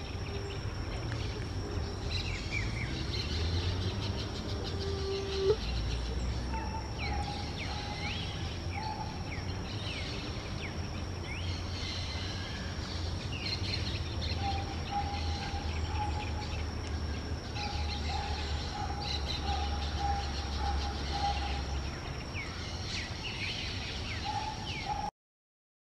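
Wild parrots calling again and again in short rising chirps, over a steady high insect drone and a low rumble. There is a single sharp knock about five seconds in, and all sound cuts off just before the end.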